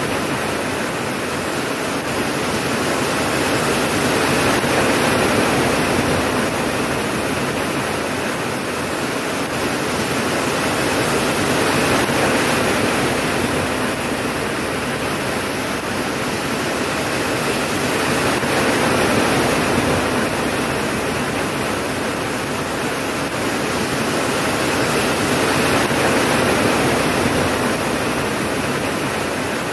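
Steady heavy rain, a dense even hiss that swells and eases gently about every seven seconds, with no thunder heard.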